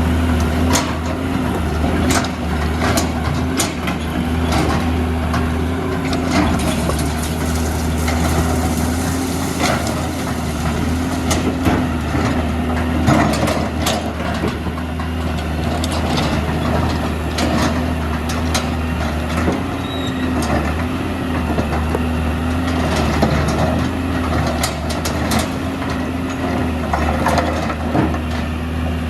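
Hitachi EX200 excavator's diesel engine running steadily, with a hydraulic whine that wavers in pitch and scattered knocks and clatter as it digs and loads sand and rocks into a dump truck.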